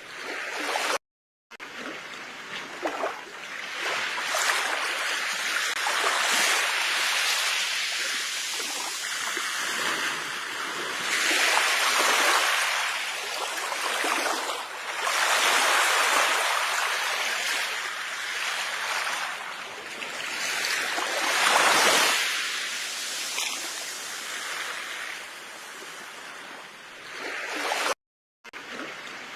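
Ocean waves breaking on a shore, the surf swelling and falling back every few seconds. The sound cuts out completely for a moment twice, about a second in and near the end.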